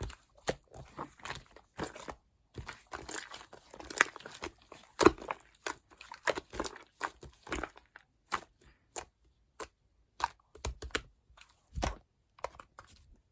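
Two-layer slime being squeezed and pressed by hand: irregular crackling clicks and pops, several a second, with short pauses in between.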